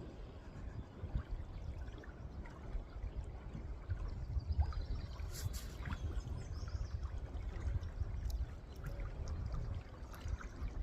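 Wind rumbling on the microphone over the sound of moving river water, with scattered faint clicks and a brief rustle about five seconds in.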